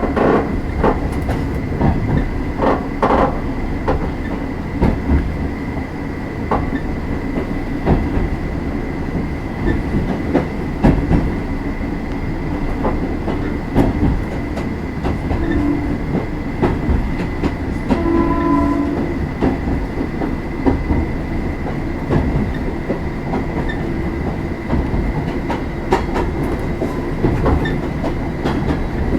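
Onboard running sound of an Oigawa Railway 16000 series electric train (car 16001, a former Kintetsu limited-express car) under way: a steady rumble of wheels on rails with the repeated clack of rail joints. A brief pitched tone sounds about eighteen seconds in.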